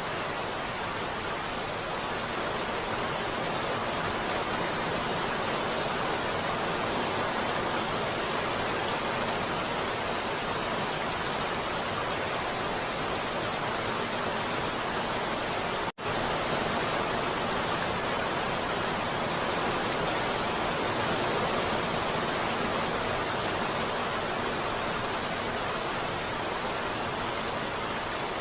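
Heavy rain falling as a steady, even hiss, cutting out for an instant about sixteen seconds in.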